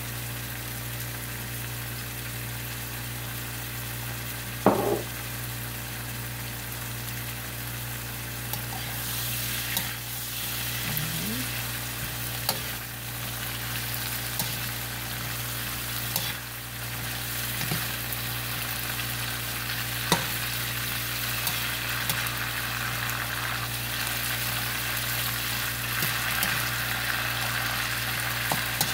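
Yardlong beans and pork belly sizzling in a nonstick wok, stirred with a plastic spatula that scrapes and knocks against the pan. A sharp knock about five seconds in; the sizzle grows louder from about nine seconds in.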